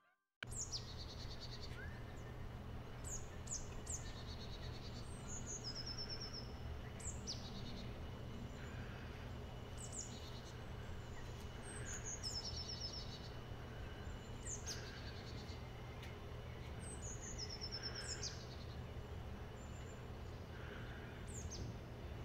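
Wild birds singing. One repeated phrase of quick downward-sliding high notes ends in a fast, very high trill and comes back about every four seconds. Under it sit a steady low background noise and a faint, steady high tone.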